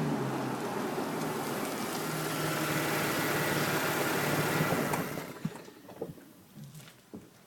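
Supercharged 3.0 V6 of a 2011 Audi S4, heard through an AWE non-resonated catback exhaust, running hard with a thin high whine over the exhaust note. The sound falls away sharply about five seconds in, and a few light clicks follow.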